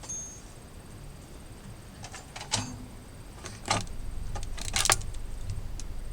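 Metal clinks and knocks of hand tools and parts being handled, a few sharp ones about two and a half, nearly four and nearly five seconds in, over a low rumble that grows in the second half.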